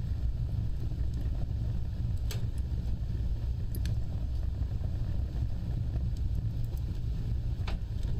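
Wood fire burning: a steady low rumble of flames with a few sharp crackles scattered through, one about two seconds in, one near four seconds and one near the end.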